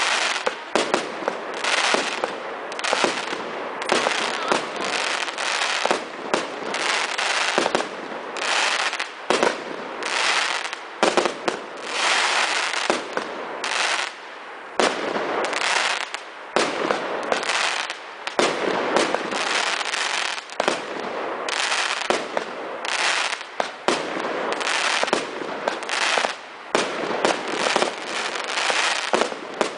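Emperor Fireworks 'Decimation' firework going off in a rapid, continuous barrage of bangs and crackle, with a few short lulls between volleys.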